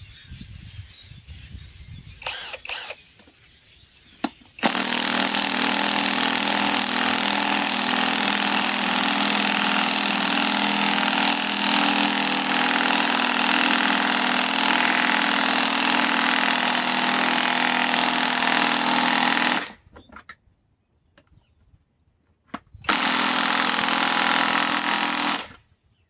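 Hercules Gen 2 compact cordless impact wrench hammering as it drives a fastener down. It runs steadily for about fifteen seconds, stops, then gives a second burst of about three seconds near the end.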